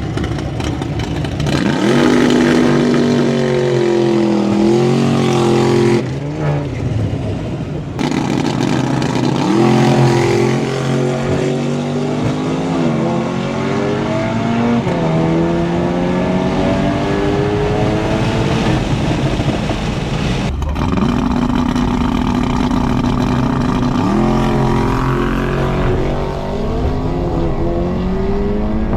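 Car engine accelerating hard under full throttle, its pitch climbing and dropping back at each upshift, over several edited stretches of drag-strip runs.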